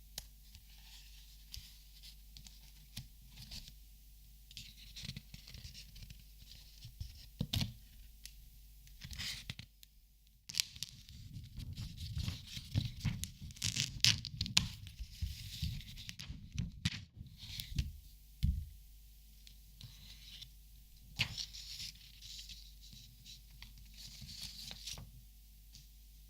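Close-up crinkling and rustling of paper or packaging, with many scattered sharp clicks and taps. The handling gets busier and louder for several seconds in the middle, with a brief quiet pause just before.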